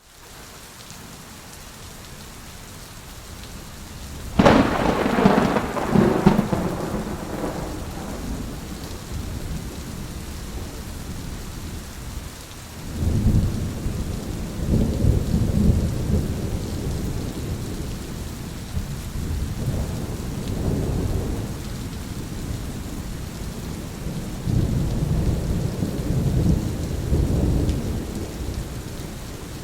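Steady rain with thunder: a sharp close thunderclap about four seconds in that rumbles away over a few seconds, followed by repeated low rolling rumbles of thunder.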